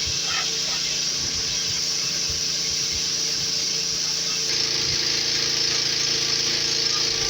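A machine running steadily: a loud, even hiss over a low motor hum, stepping up slightly about four and a half seconds in.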